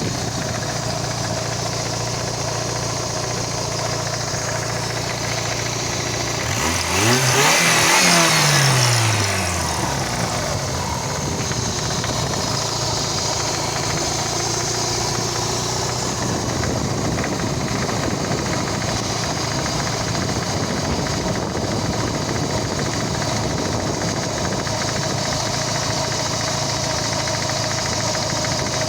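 Car engine idling with an unidentified knock. It is revved once about seven seconds in, then drops back to idle about three seconds later.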